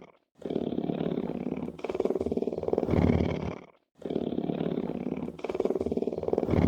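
Lion roaring: long runs of rapidly pulsing roar, broken by a brief silence just under four seconds in.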